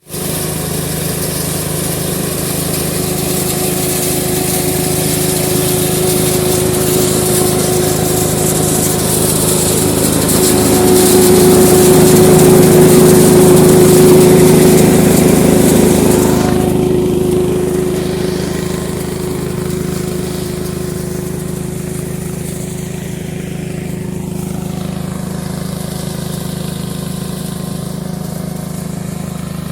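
Kirloskar combine harvester's diesel engine running steadily. It grows louder to a peak about midway, then eases off. A high hiss over the engine stops abruptly a little past the middle.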